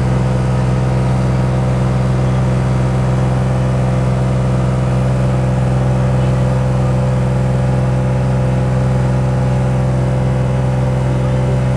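Diesel locomotive's engine idling steadily, a constant low hum that does not change in pitch or level.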